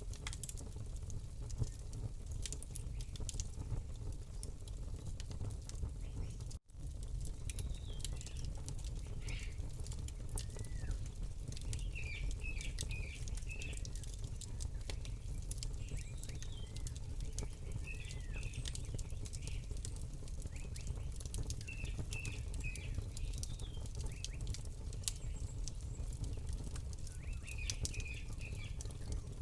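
Campfire crackling, many sharp pops over a low rumble. Small birds chirp in short bursts of a few notes from about eight seconds in. The sound cuts out for a split second a few seconds in.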